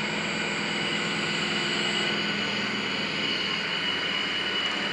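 Driveshaft balancing machine spinning a Mercedes Vito driveshaft, a steady mechanical hum with a high whine. The whine stops about two seconds in and the lower hum then eases off, as the shaft winds down.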